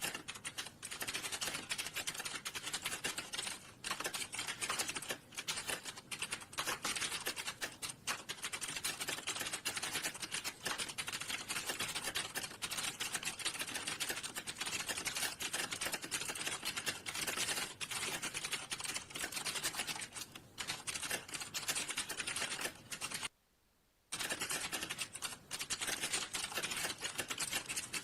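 Fast, continuous typing on a computer keyboard, a dense run of key clicks that stops briefly for under a second about 23 seconds in.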